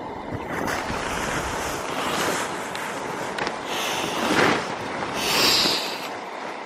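Wind buffeting the camera microphone, a rushing noise that swells twice in the second half.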